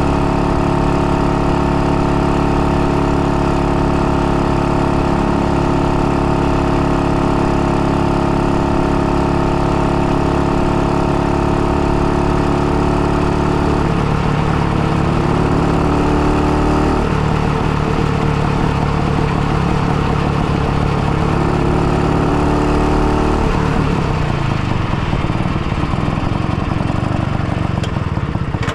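IZh-49 motorcycle's single-cylinder two-stroke engine running while riding, freshly bored out for a 75 mm piston and being run in. It holds a steady note for about half the time, then the pitch shifts at around 14 and 17 seconds, steadies briefly, and eases off into a lower, rougher note for the last few seconds.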